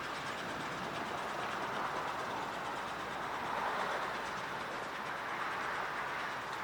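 Brill railcar moving on the rails or turning on the turntable: a steady running noise that swells slightly about three to four seconds in.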